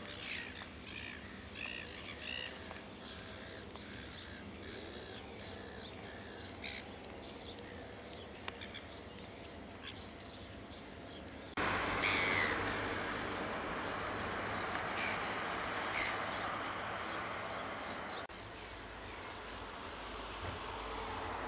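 Birds calling, with short chirps and calls, over a steady hiss that jumps suddenly louder about halfway through.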